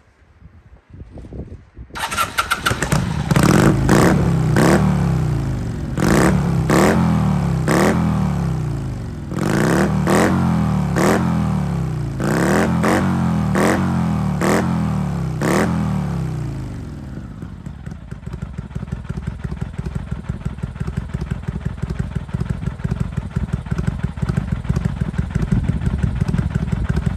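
Kawasaki Vulcan 400 V-twin motorcycle engine starting about two seconds in. It is blipped about a dozen times, the revs falling back after each blip, then settles to a steady idle for the last ten seconds or so.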